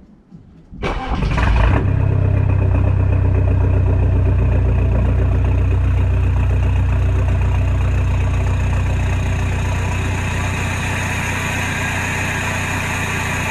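Audi A4 B7's 2.0 TDI BPW eight-valve four-cylinder diesel with a straight-pipe exhaust being cranked by the starter about a second in, catching within a second and settling into a loud, steady idle.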